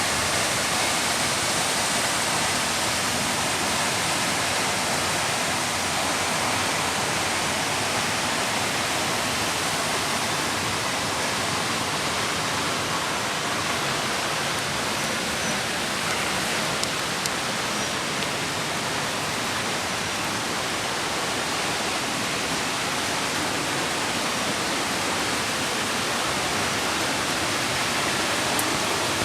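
Mountain creek rushing steadily, a constant even hiss of flowing water.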